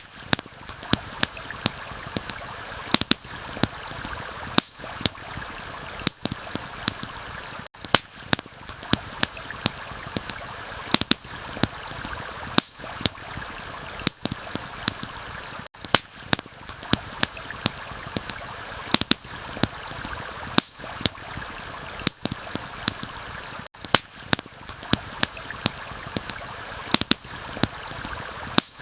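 Steady rush of a flowing stream, with frequent sharp crackles and pops from a campfire scattered through it. The whole bed drops out briefly about every eight seconds.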